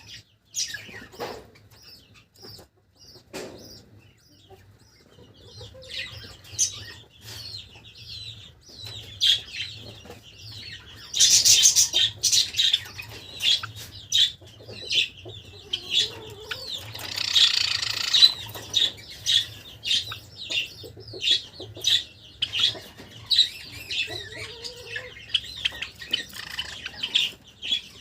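Java sparrows chirping in many short, high calls, with a couple of louder rushes of wing flapping about 11 and 17 seconds in.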